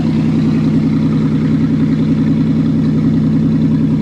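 Pontiac car engine running at a steady idle just after a cold start at about 3 °C without a choke.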